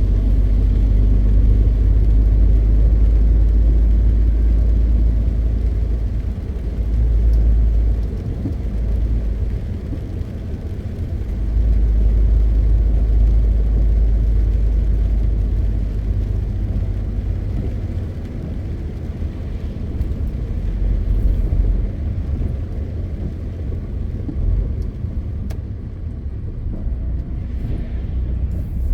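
MAN TGX 520 truck's diesel engine and road noise while driving: a steady low rumble that eases off for a few seconds about a third of the way in and runs lower through much of the second half.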